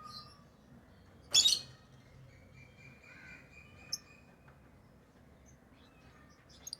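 Pet lovebirds calling: one loud, harsh screech about a second and a half in, then short, sharp chirps near four seconds and again near the end.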